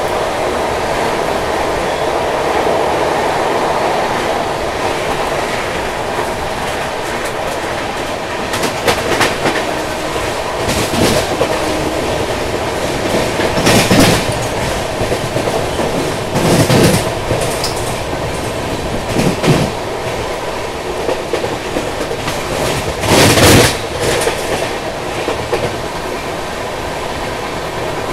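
Passenger express train running along the track, its wheels clicking over rail joints under a steady rumble, with about six short, louder swells of noise in the second half, the loudest near the middle and again about two-thirds of the way through.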